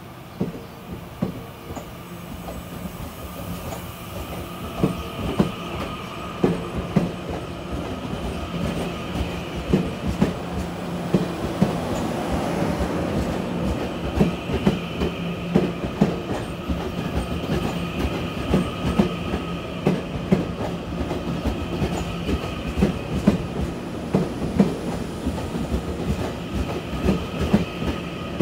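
Taiwan Railways Puyuma tilting electric multiple unit pulling out and rolling past, its wheels clicking over rail joints more and more often as it gathers speed. A steady high whine runs under the clicks, and the sound grows louder through the first half.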